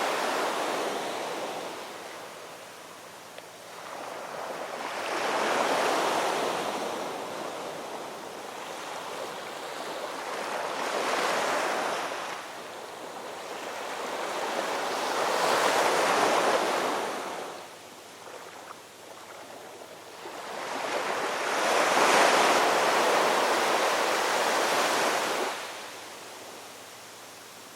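Ocean waves washing onto the shore, a surge of surf rising and falling away about every five to six seconds.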